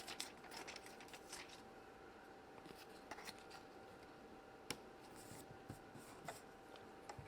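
Near silence with faint clicks and light rubbing from small toy pieces being handled, one sharper click about two-thirds of the way through, over a faint steady hum.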